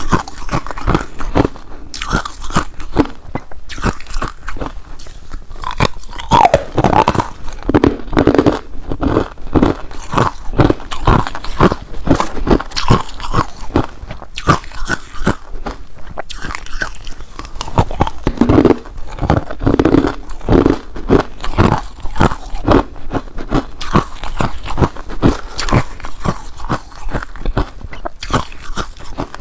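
A person chewing ice, crunching it steadily in dense, irregular cracks, with a few heavier crunches along the way.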